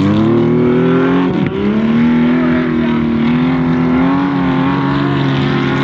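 Audi Sport Quattro S1 E2's turbocharged inline five-cylinder engine running hard. Its pitch dips briefly about a second and a half in, then holds fairly steady with slight rises and falls.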